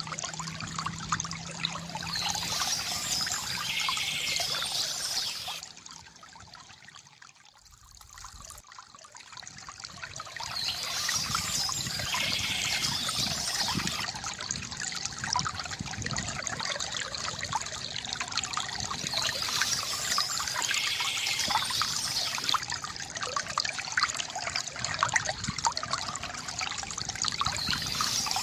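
Water trickling and pouring from a bamboo fountain spout into a basin, a steady splashing that fades briefly about six seconds in before picking up again.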